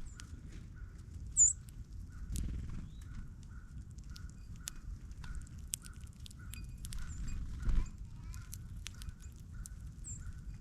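Small birds feeding close by at a ground feeder: scattered sharp clicks of beaks and feet on seed, with a couple of brief high chips. A faint note repeats steadily about every half second in the background.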